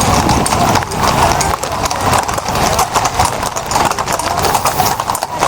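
Many horses' hooves clip-clopping on a stone-paved street: a dense, irregular run of hoofbeats from a column of mounted riders.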